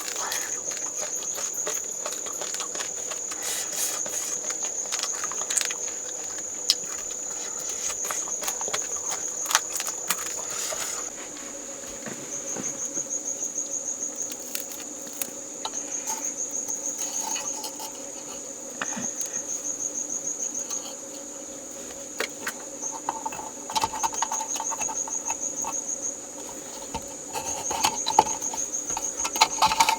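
Insects trilling steadily at a high pitch. From about eleven seconds in, the trill comes in pulsed runs of a few seconds each. Scattered clicks and knocks are heard over the first part.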